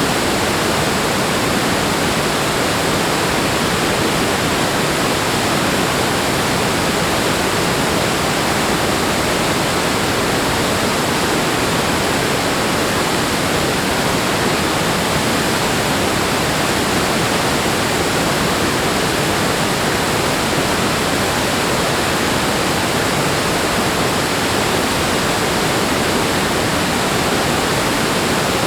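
Rushing water, a steady, even noise that does not change.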